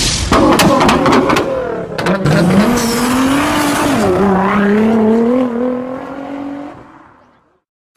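A car engine revving hard, its pitch rising and falling, with several sharp cracks in the first two seconds, then fading out near the end.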